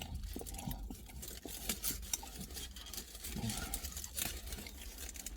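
Sounds of someone eating a kebab: scattered light clicks, rustles and soft low thuds, such as cutlery, food wrapping and chewing.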